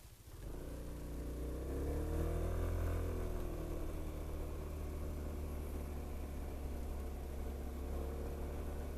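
A vehicle engine running steadily with a low hum, coming in just after the start and wavering slightly in pitch a couple of seconds in.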